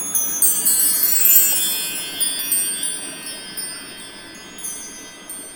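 High metal chimes ringing in a shimmering cascade of many overlapping notes. It is struck all at once at the start, then fades slowly, with a few single notes added later.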